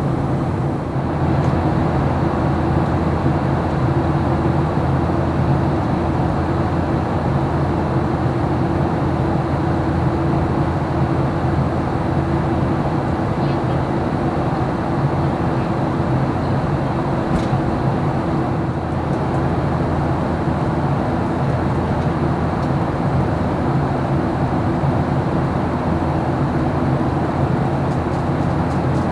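Steady cabin drone of a Boeing 737-800 airliner in flight: engine and airflow noise with a few steady low hum tones.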